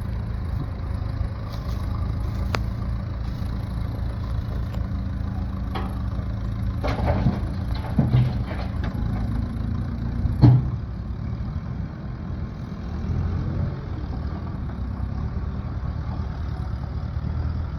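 An engine running steadily at idle, with a few sharp knocks or clatters in the middle, the loudest about ten seconds in.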